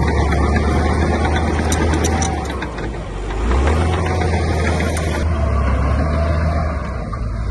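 Heavy construction-machine diesel engine running under load with a deep, steady drone. It eases off briefly about three seconds in, then picks back up. A few sharp clicks come at about two seconds.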